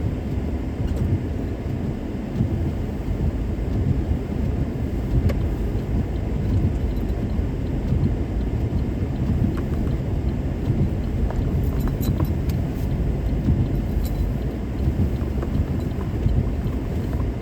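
Car driving on a snow-covered road on winter tyres, heard from inside the cabin: a steady, low tyre and road rumble with a few faint ticks.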